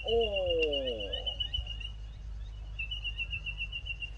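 Outdoor birdsong: a drawn-out call slides steadily downward for about a second at the start, over a high, fast trill that carries on throughout with a short break part-way through.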